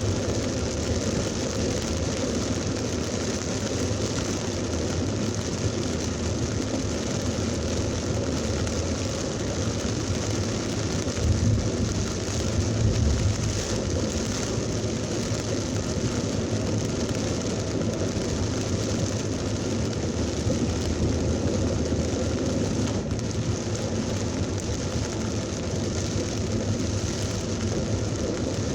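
Heavy thunderstorm rain pouring steadily, with a brief deeper low rumble a little before the middle.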